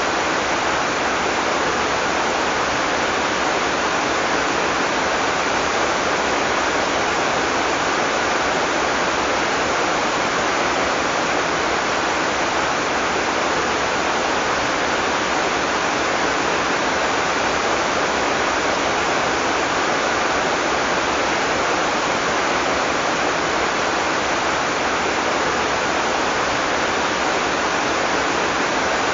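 Heavy tropical rain falling steadily, a dense, even hiss without thunder.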